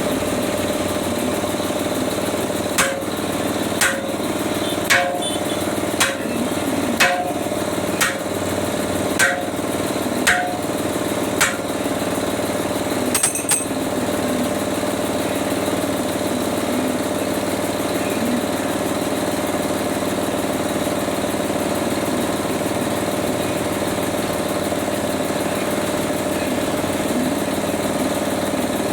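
Nine sharp hammer blows about a second apart, then a quick double knock, over an engine idling steadily, as a tractor tyre is worked onto its rim.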